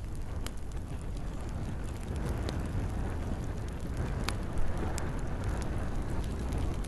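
Campfire crackling, with a steady low rumble of the flames under gentle rain and a few sharp pops, the loudest a little past halfway.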